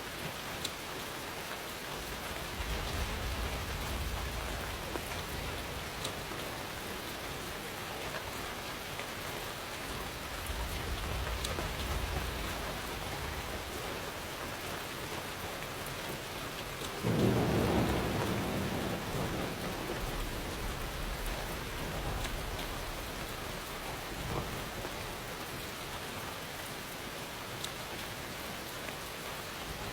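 Steady rain falling, with distant thunder rumbling low a couple of times. About seventeen seconds in, a louder thunderclap breaks in suddenly and rolls away over several seconds.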